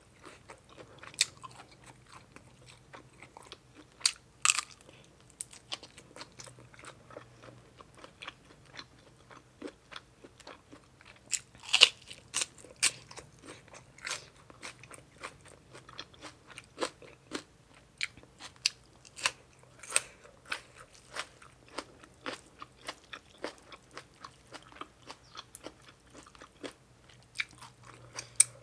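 A person chewing and biting crunchy seafood papaya salad close to the microphone: many short, sharp crunches and wet clicks at an irregular pace, the loudest about twelve seconds in, over a faint low hum.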